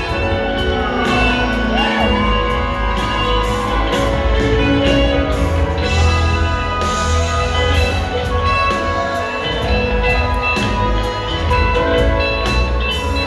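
Live rock band playing, with drums and a strong bass line under held guitar notes and a few gliding notes.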